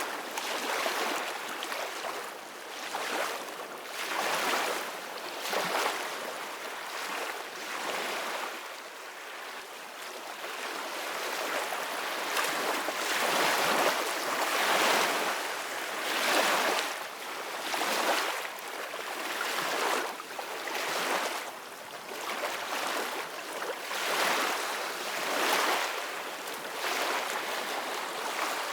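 Sea waves splashing and washing in a steady stream of surges, one about every one and a half to two seconds, each rising and falling away.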